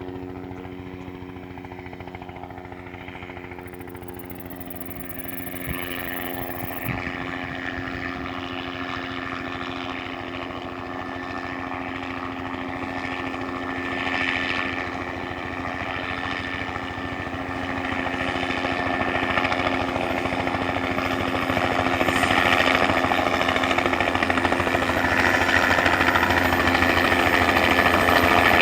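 Helicopter's engine and rotor running steadily, growing louder through the second half.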